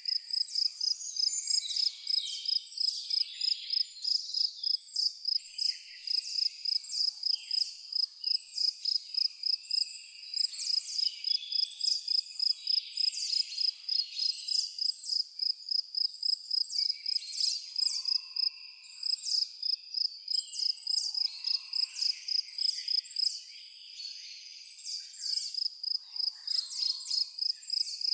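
Evening chorus of a high, steadily pulsing insect trill, several pulses a second, with many birds chirping and whistling over it.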